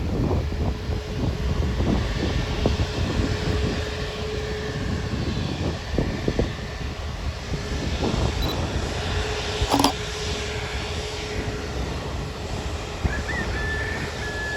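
Airliner jet engines running with a steady, even noise heavy in the low end and a faint held tone. A single sharp click comes about ten seconds in.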